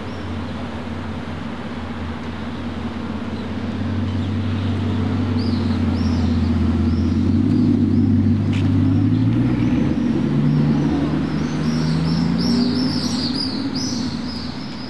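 Bugatti Chiron Super Sport's quad-turbo W16 engine running at low speed as the car drives slowly past, getting louder as it comes close, then rising in pitch as it pulls away. Birds chirp faintly in the background.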